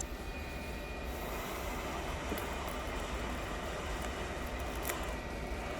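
Hot air rework station blowing a steady stream of hot air over the phone's back glass, a continuous rushing hiss with a low hum underneath, heating the adhesive to loosen the glass.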